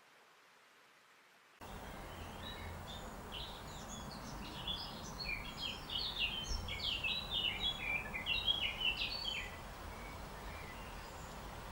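A songbird singing a long, rapid run of short chirping notes that steps down in pitch, over steady background noise that starts abruptly about a second and a half in.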